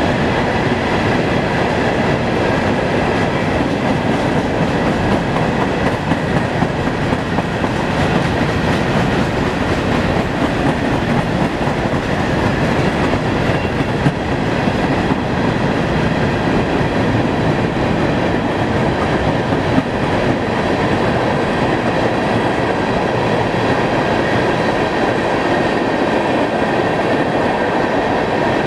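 Train cars rolling steadily past on the track, a continuous rumble and rattle of wheels on rail.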